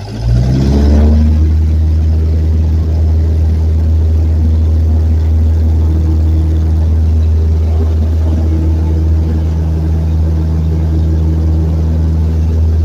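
Cessna 172's engine and propeller climbing quickly to full power in about the first second, then a steady, loud drone at takeoff power.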